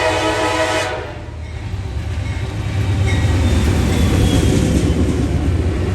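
Freight train led by a GE C40-8W diesel locomotive passing close by: its horn sounds and cuts off about a second in, then the locomotive's engine and wheels rumble, growing louder.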